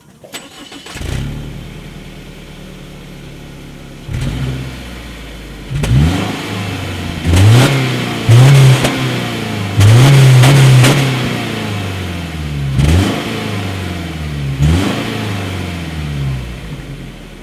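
Subaru 2.0-litre boxer four-cylinder engine starting about a second in with a brief flare, idling steadily, then revved again and again. Each rev is a quick climb in pitch and a fall back to idle, the longest and loudest in the middle.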